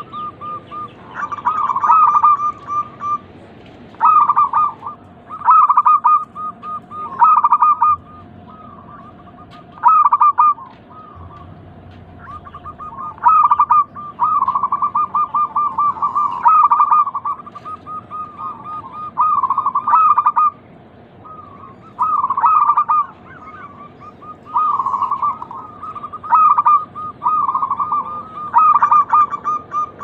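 Zebra dove (perkutut) song: phrase after phrase of rapid, staccato cooing notes around one pitch, repeating every one to two seconds.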